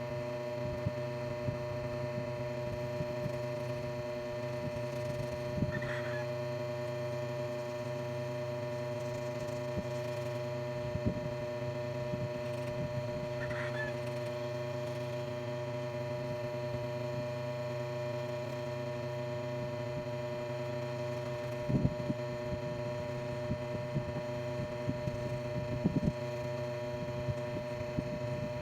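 Steady electrical hum with several pitched lines, broken by a few light knocks and two brief high chirps.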